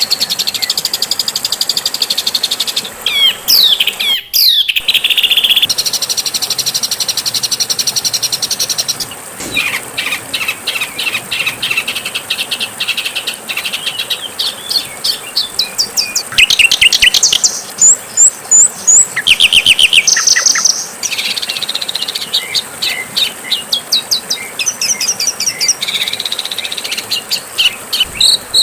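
Songs and calls of several songbirds spliced one after another: fast runs of high chirps, trills and whistles that switch abruptly to a different bird every few seconds.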